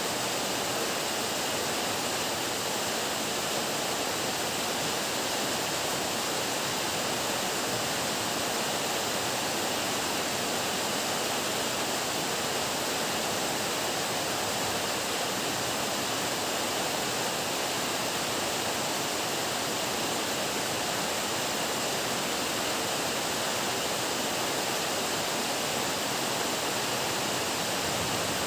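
Heavy rain pouring down steadily, an even hiss with no single drops or thunder claps standing out.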